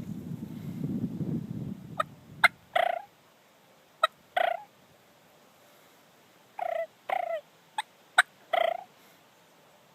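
Wild turkey gobblers gobbling close by, about five short rattling gobbles, some in quick pairs, each led by a sharp short note. A low rumble fills the first two seconds or so.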